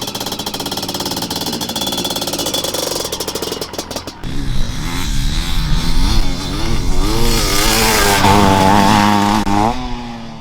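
Honda CR500AF's single-cylinder two-stroke motocross engine: rapid, even firing pulses at first, then from about four seconds in louder, its pitch rising and falling again and again as the bike is ridden on the throttle, with a final steep climb and a drop near the end.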